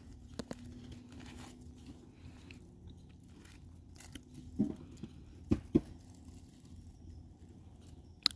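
A person chewing and biting food close by, with a few short soft clicks and knocks over a faint steady hum.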